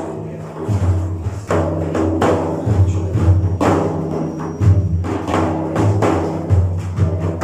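Frame drums (daf) playing a steady rhythm of deep, resonant strokes, with no singing.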